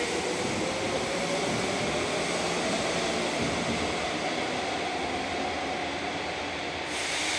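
Hanshin electric train pulling away along an underground platform: its traction motors give a whine that rises slowly in pitch as it accelerates, over steady running noise echoing off the platform. Near the end the sound changes suddenly to a brighter hiss.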